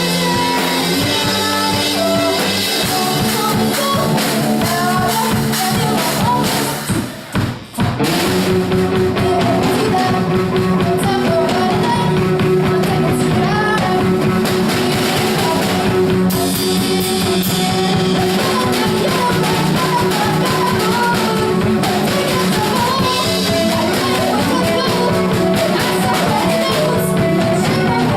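Rock band playing a song on drum kit and guitar, with singing. The band drops out briefly about seven seconds in, then comes back in.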